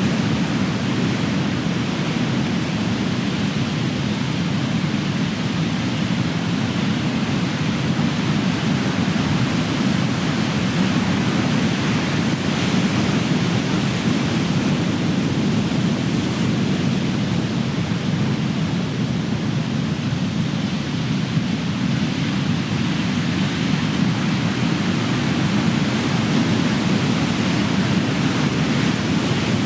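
Big ocean waves breaking and washing on the shore, a steady, dense surf with a deep rumble and gentle swells in level.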